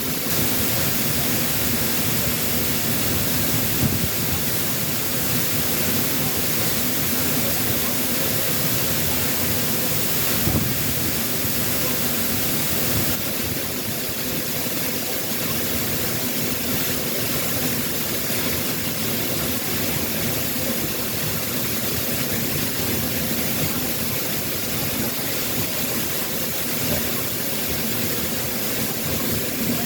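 Waterfall running in heavy, typhoon-swollen flow: a steady, loud rush of falling water.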